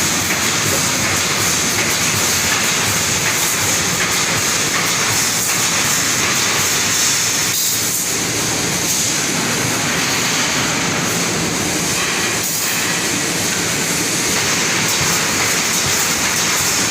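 Rebar wire mesh welding machine running: a steady, loud mechanical clatter with fine rapid ticking throughout.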